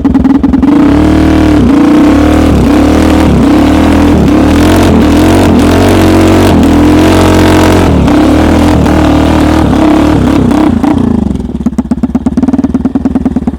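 Homemade snowmobile's small engine revving hard, its speed swinging up and down again and again, then falling back to a lumpy, pulsing idle about eleven seconds in. The engine is not running cleanly, which the riders put down to debris caught under the carburetor needle.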